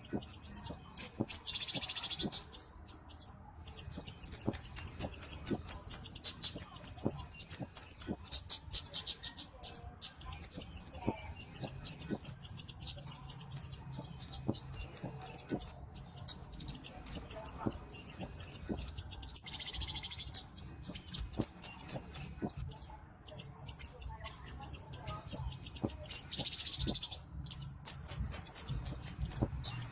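Flowerpecker (cabe-cabean) singing: rapid strings of very high, thin notes, several a second, in phrases a few seconds long broken by short pauses.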